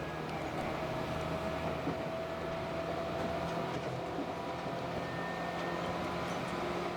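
Tobu 8000 series electric train running, heard from inside the car: steady traction motor and wheel-on-rail noise with a faint whine that rises slightly in pitch.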